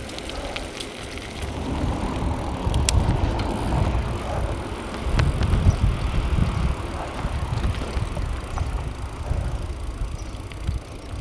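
Wind buffeting the microphone of a bicycle coasting downhill, over the rumble of its tyres on the road, with a couple of light clicks from the bike.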